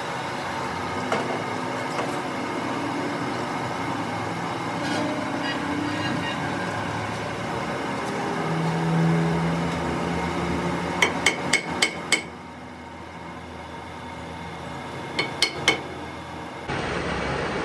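Hammer blows on steel: a quick run of five sharp ringing strikes, then three more a few seconds later, over steady workshop noise.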